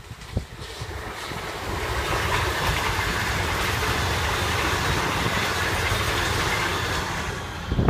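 Metro Trains Melbourne electric suburban train passing close by on the main line, its wheel-and-rail running noise building as it approaches over the first two seconds, then holding steady and loud as the carriages go past and easing slightly near the end.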